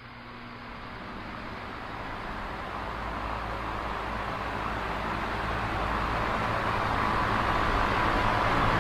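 Small oscillating electric fan running, a steady airy whoosh over a low motor hum, growing steadily louder.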